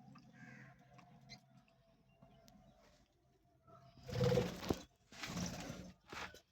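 Birds in an outdoor aviary, faint at first, then three louder noisy bursts in the second half.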